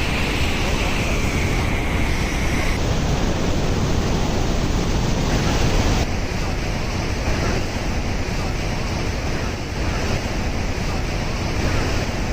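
Steady, loud rush of Bridal Veil Falls pouring down at close range, with wind buffeting the microphone.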